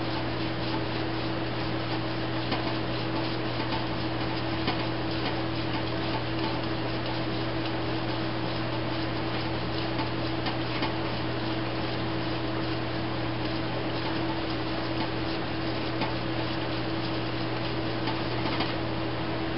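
A steady machine hum runs throughout, with faint light ticks and scrapes from a small screwdriver gently working varnish off the brass parts of a Mikuni motorcycle carburettor.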